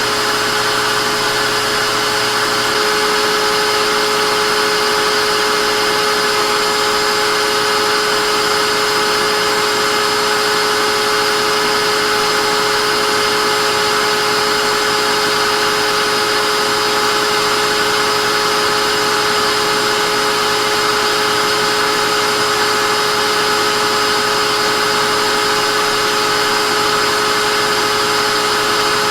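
Vacuum cleaner motor running steadily: a constant rush of air with a high whine over it. A faint low hum drops away about three seconds in.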